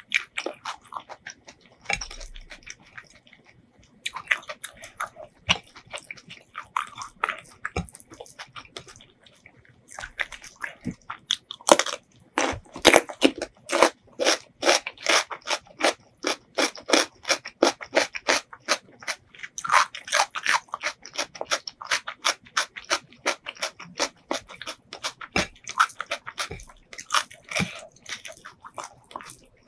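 Close-miked chewing with crisp, crunchy bites, sparse for the first ten seconds and then steady at about three chews a second.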